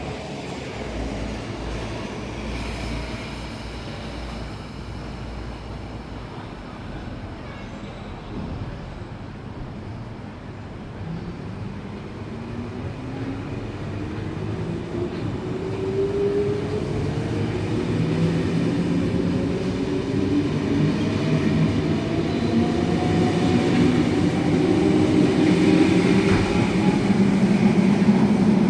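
Sydney S-set electric train starting off and accelerating, its traction motors giving a whine that climbs steadily in pitch over the second half, over a rumble that grows louder toward the end.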